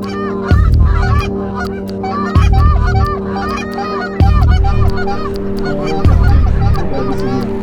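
Many geese honking at once, their calls overlapping, over background music with a heavy bass beat about every two seconds.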